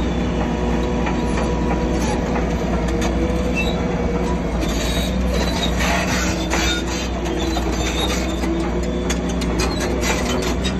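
Crawler bulldozer working: its diesel engine runs steadily under the squeal and clank of steel tracks, with irregular knocks and clatter that grow denser about halfway through and again near the end.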